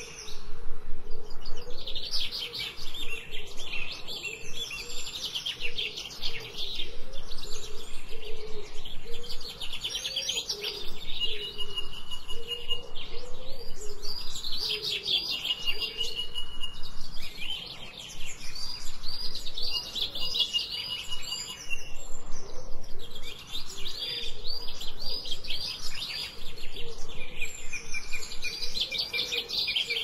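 Songbirds singing: repeated phrases of rapid high chirps, several of them ending in a short held whistle, with a quieter, lower warbling call underneath.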